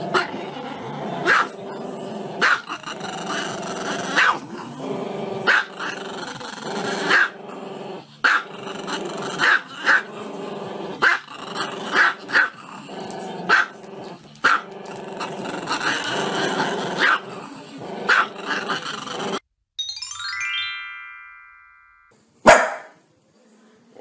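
Small dog howling with its head raised, a long wavering howl broken by sharp yaps about once a second. Near the end it cuts off abruptly, a short falling run of chime-like tones sounds, and then another dog gives a couple of sharp barks.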